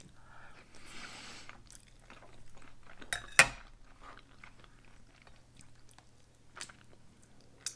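Chewing a mouthful of stuffed pepper close to the microphone, with soft mouth clicks. A single sharp clink of cutlery on a plate comes about three and a half seconds in.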